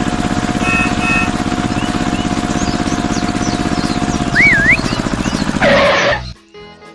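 Tractor engine chugging steadily with a fast, even pulse, a horn beeping twice about a second in, and birds chirping faintly. Near the end a brief noisy burst comes, then the engine cuts off and soft music follows.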